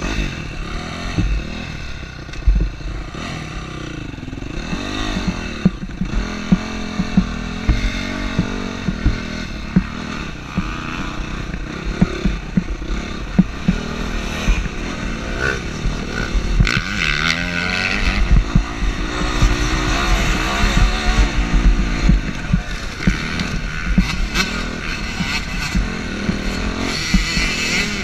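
Motocross dirt bike engine revving up and falling back again and again as it is ridden round the track, with frequent knocks and clatter.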